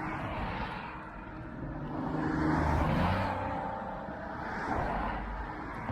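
Road traffic on a busy boulevard: a motor vehicle passes close by, its engine and tyre noise swelling to a peak about three seconds in and then fading.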